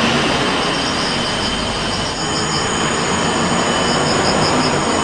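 Steady, loud machine noise with a thin, high-pitched whine held throughout.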